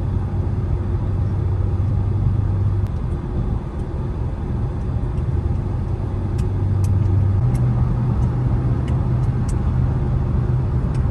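BMW 650i V8 engine running as the car drives: a steady low drone that fades about three seconds in, then returns and steps up in pitch about seven and a half seconds in.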